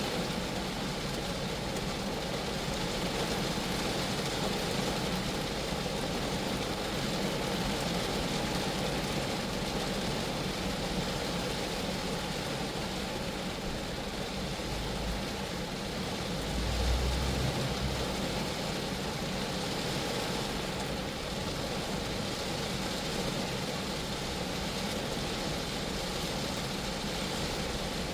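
Rain falling steadily on a Geo Metro: an even hiss of drops on the car's body, with a brief low rumble about two-thirds of the way through.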